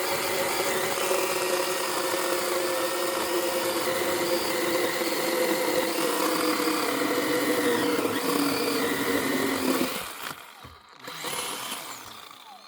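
A motor-driven power tool running steadily, its pitch sagging lower as if under load toward the end, then cutting off about ten seconds in.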